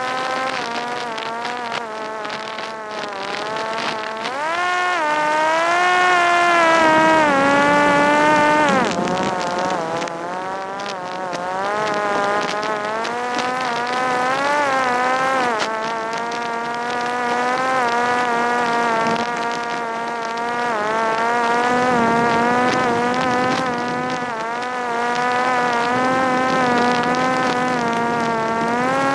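Parrot Disco fixed-wing drone's electric pusher motor and propeller running in flight: a buzzing whine whose pitch rises and falls with the throttle. The pitch climbs from about four seconds in, falls sharply near nine seconds, then wavers up and down more gently.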